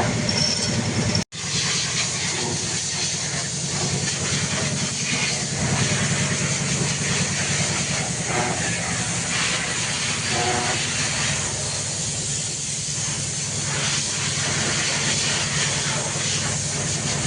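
Steady hiss of a pressurised spray, most likely engine-cleaning chemical being sprayed, over a steady low machine hum. The sound cuts out for an instant just over a second in, then carries on unchanged.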